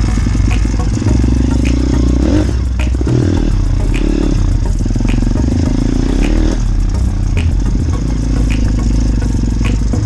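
Motorbike engine running along a farm track, its revs rising and falling a few times, with a rattling clatter and a faint regular tick about once a second.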